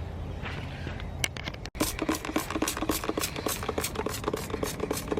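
Trigger spray bottle of Armor All tire shine squeezed rapidly again and again, giving a fast run of short squirts from about two seconds in; the bottle is running low.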